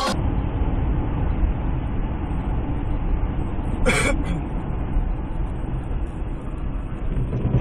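Car driving on the road: a steady low rumble of engine and tyres, with one short sharp sound about four seconds in.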